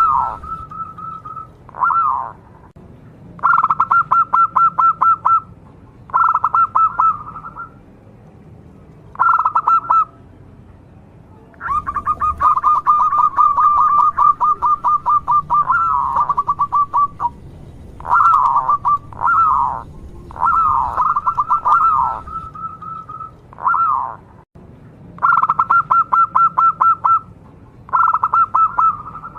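Zebra dove (perkutut) singing repeatedly: phrases of rapid, purring pulsed notes broken by short falling notes, with brief pauses between phrases and one long phrase near the middle.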